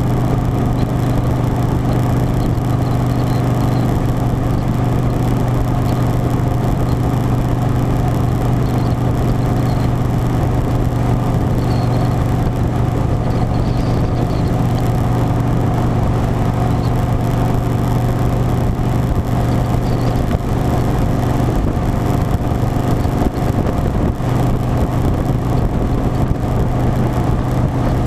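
Harley-Davidson Softail Standard's V-twin engine running at a steady cruise, its pitch holding constant, with wind noise rumbling underneath.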